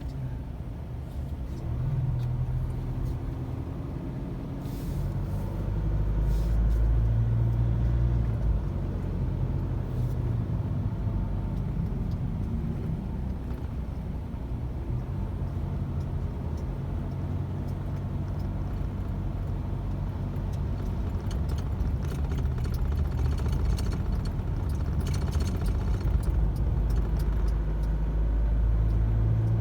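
Road vehicle driving through city traffic: a steady low engine and road rumble that swells a little now and then.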